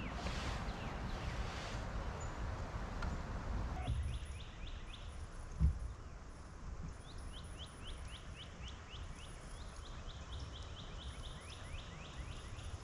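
Wind and water noise for about the first four seconds, then quieter, with a bird calling in quick series of short downward-sliding whistles. One brief thump comes a little before six seconds in.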